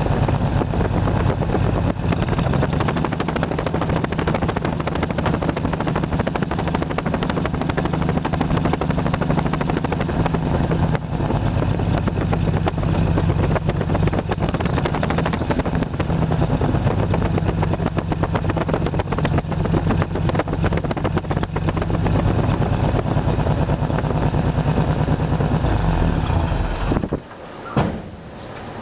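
1939 Dodge D11's 218 cu in flathead inline-six running rough with a misfire, a fault not yet traced after new fuel pump, plugs and wires. About two seconds before the end the engine stops suddenly, followed by a short thump.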